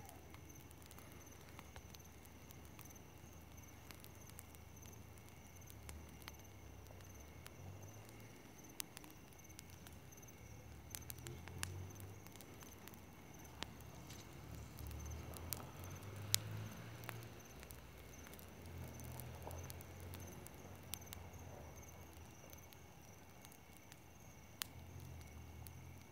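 Campfire of dry grass burning, with scattered sharp crackles and pops, one louder pop about two-thirds of the way in, over a low rumble.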